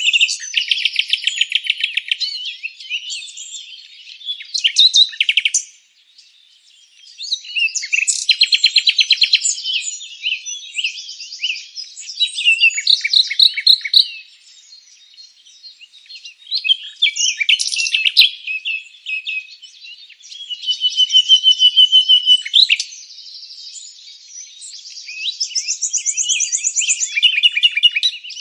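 Songbirds singing: phrases of rapid trills and chirps a few seconds long, with short pauses between them.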